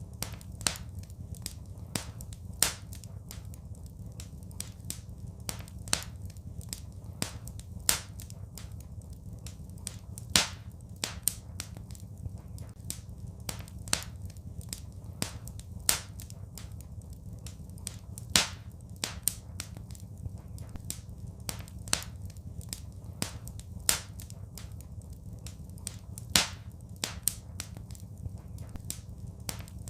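Wood fire crackling in a fireplace: irregular small snaps and pops over a steady low rumble, with a louder pop every two to three seconds.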